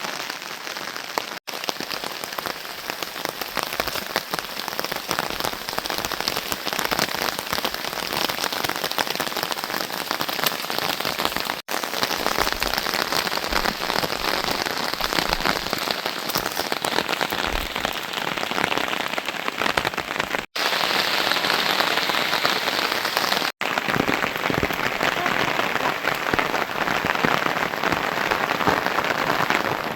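Steady rain falling, a dense patter of many drops hitting a surface, broken four times by an instant of silence.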